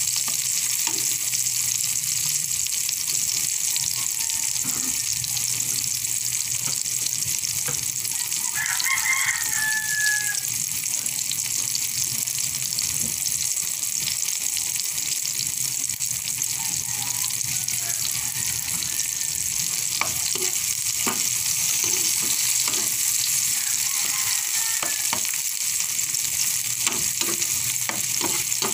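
Diced tomatoes and garlic sizzling in hot oil in a nonstick frying pan, a steady frying hiss, with scattered clicks and scrapes of a metal spoon stirring them against the pan.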